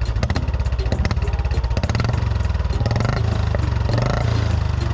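Royal Enfield Bullet 350's single-cylinder engine idling through its stock silencer with the turbo whistle removed: a steady, rapid beat of exhaust pulses.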